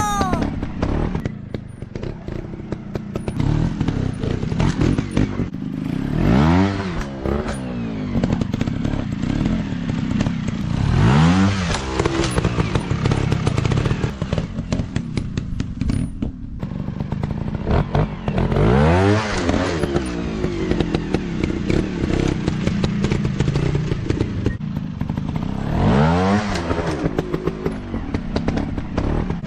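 Dirt bike engine revving up and falling back four times over a steady running note, with clattering and knocking throughout.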